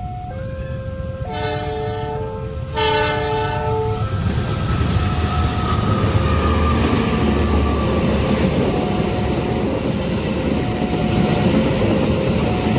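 Level-crossing warning alarm alternating between two notes as a train's horn sounds two blasts, each about a second long, a little over a second apart. From about four seconds in the train passes with a steady rumble of wheels on rail while the crossing alarm keeps going.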